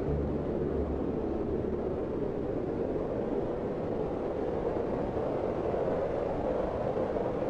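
A steady, even rushing noise with no distinct calls or tones.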